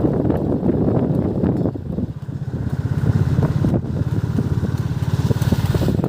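Motorcycle engine running with an even low pulsing, with wind rumbling on the microphone during the first two seconds.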